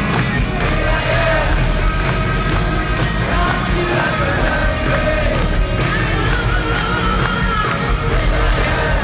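Hard rock band playing live at full volume, with a singing voice over the band.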